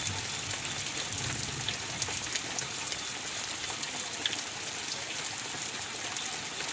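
Steady rain falling, an even hiss with many sharp drop impacts ticking through it.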